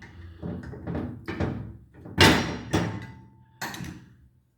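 About six irregular knocks and clunks of metal parts being worked loose and handled on a bench as a cam cap comes off an aluminium cylinder head; the loudest knock comes a little over two seconds in. The sound cuts out abruptly near the end.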